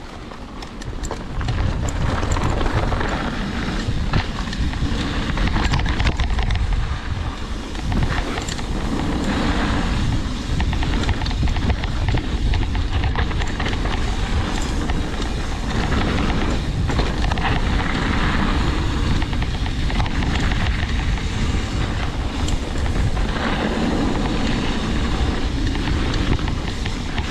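Wind rushing over the camera microphone and a mountain bike rattling and clattering as it descends a rough downhill trail.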